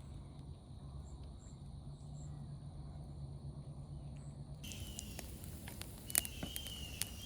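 Insects singing in steady, high, even tones. After an abrupt cut about two-thirds in, a repeating chirp takes over, with a few sharp clicks and knocks, the loudest a little over a second before the end.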